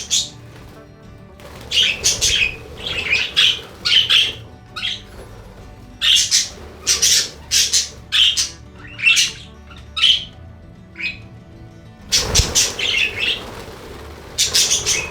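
Budgerigars squawking and chattering in a string of short, harsh calls, with a brief louder rustling burst about twelve seconds in.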